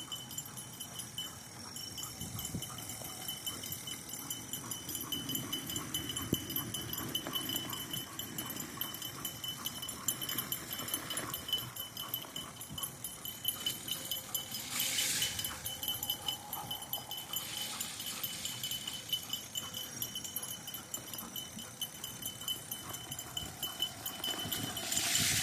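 Dogs panting as they run in harness pulling a fat bike, over the steady rolling of its tyres on a muddy trail. Two brief hissing rushes come through, one about halfway and one near the end.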